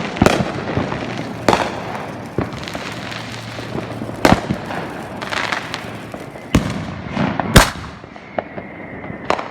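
Fireworks going off: a string of sharp bangs at irregular intervals, about seven in all, the loudest near the end.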